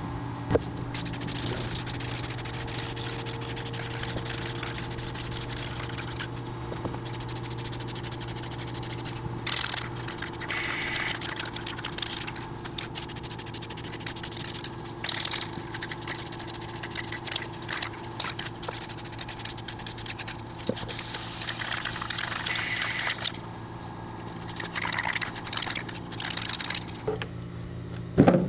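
A wheel and tire being scrubbed and sprayed during cleaning, with bursts of rubbing and spraying. A steady motor hum runs underneath, and part of it drops away about a third of the way in.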